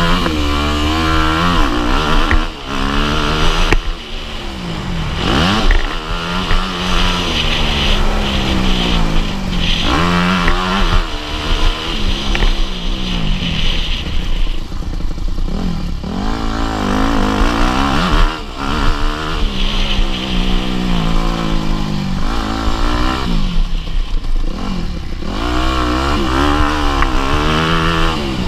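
Motocross bike engine at race pace, revving up and falling back again and again as the throttle is opened and closed through the corners and gear changes.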